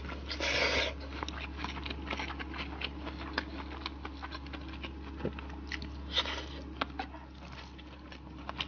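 Close-miked chewing of a mouthful of oily rice mixed with pickled mustard greens, with many small wet mouth clicks. There are two short louder noisy sounds, about half a second in and about six seconds in.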